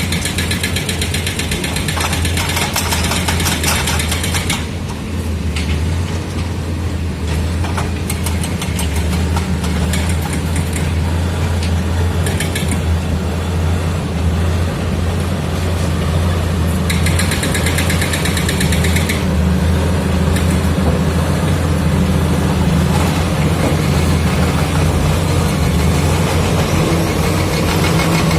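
Komatsu D85E-SS crawler bulldozer's diesel engine running steadily under load, with stretches of high metallic clatter near the start, about eight to twelve seconds in, and again about seventeen to nineteen seconds in.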